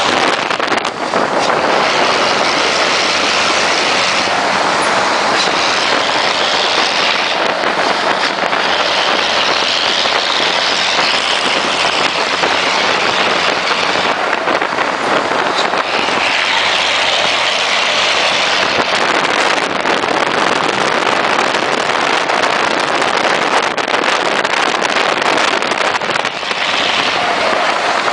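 Loud, steady vehicle noise echoing inside a tunnel, a dense roar that swells and eases every few seconds.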